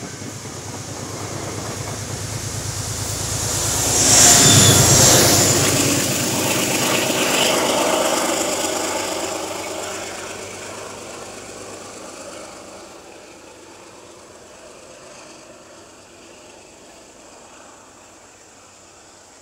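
Metro-North push-pull commuter train passing close by: the rumble of the coaches builds to its loudest about four seconds in as the P32AC-DM diesel locomotive at the rear goes past, then fades steadily as the train draws away.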